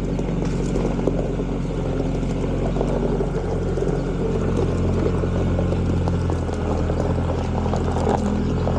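Bobcat skid-steer loader's engine running steadily under load while it carries a heavy crushed truck bed.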